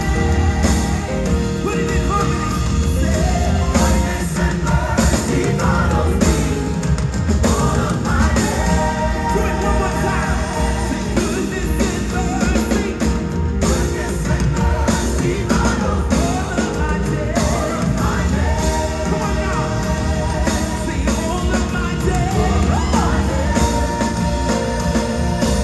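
Live gospel music: a choir singing sustained lines over a full band with drums and a heavy bass.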